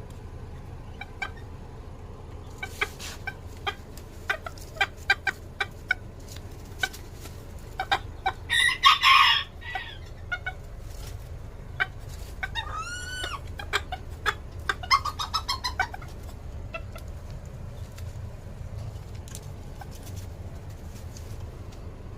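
Bantam chickens clucking in short, scattered calls, with a loud harsh call about nine seconds in and a short arching rooster crow about thirteen seconds in. A steady low hum runs underneath.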